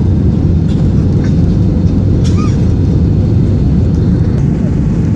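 Steady low rumble of an airliner's engines and rushing air heard inside the passenger cabin around takeoff.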